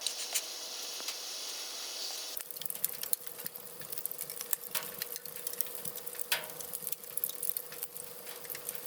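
Water being readied in a pot on a hot-tent wood stove. It hisses steadily for about two seconds, then settles into soft, irregular crackling and ticking, with a faint steady tone underneath.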